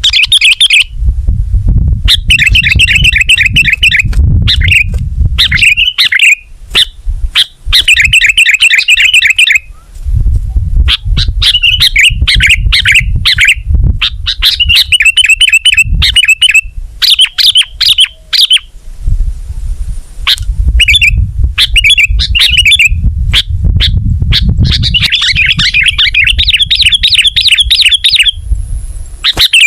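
Sooty-headed bulbul (kutilang) singing loud, rapid chattering, trilled phrases in repeated bursts with short pauses, over a low rumble.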